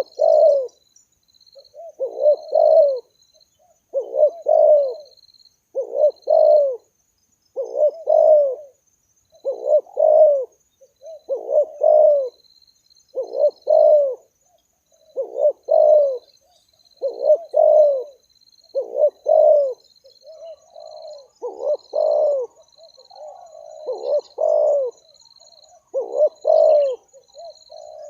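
Spotted doves cooing, short phrases of two or three notes repeated about every one and a half to two seconds, with the calls overlapping in the second half as a second dove answers. A faint, rapid high ticking runs underneath.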